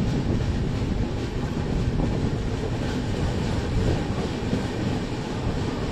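Passenger express train coaches running along the track, heard from the coach side: a steady rumble of wheels on rail with some faint clatter from the rails.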